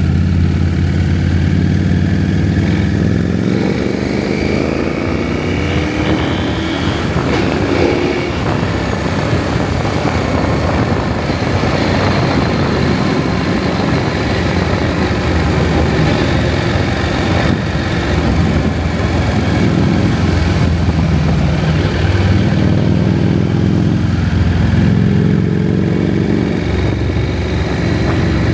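KTM 790 Adventure's parallel-twin engine riding under power, its pitch climbing over the first several seconds and again near the end, with a steady rush of wind and road noise in between.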